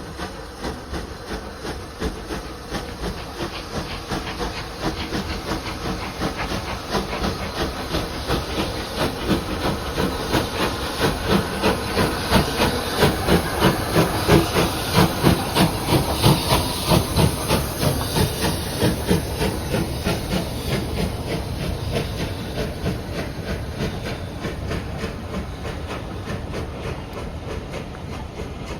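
Steam locomotive working hard, with quick, regular exhaust chuffs and hissing steam. It grows louder to a peak about halfway, then fades away.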